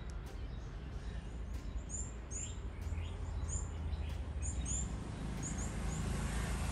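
Small birds chirping: short, high chirps in quick pairs or small groups, repeating about once a second, over a steady low background rumble.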